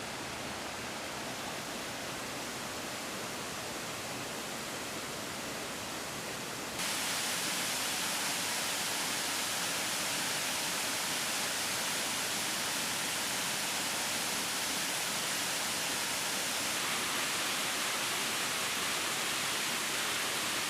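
Steady rush of river water, which gets louder and brighter suddenly about seven seconds in.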